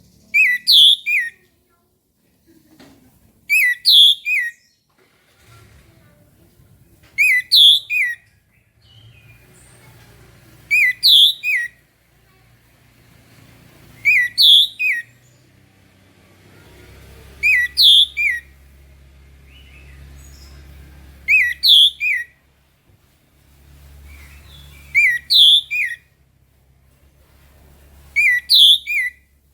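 Orange-headed thrush singing the same short phrase of a few whistled notes over and over, about once every three and a half seconds, nine times.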